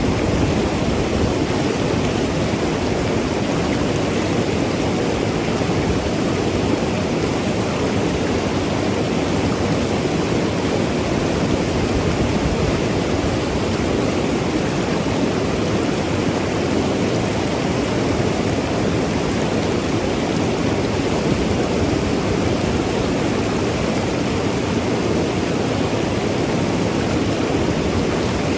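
Mountain river rushing and gurgling over rocks: a steady, full rush of water, strongest in the low and middle range.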